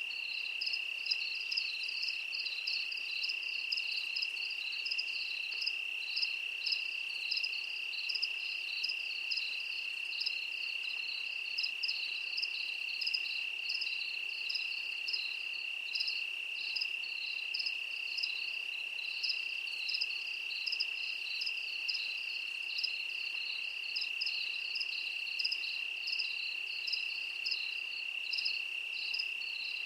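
Insects chirping: a steady high trill with an even run of quicker chirps above it, a few each second, going on without a break.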